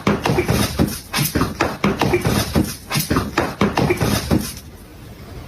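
An animal, most likely a pet, giving a fast run of short repeated calls, about five a second, that stops about four and a half seconds in.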